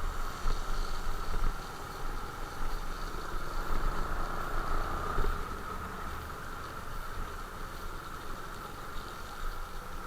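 Motorcycle engine running steadily, with uneven low rumbling gusts over it in the first half that settle after about six seconds.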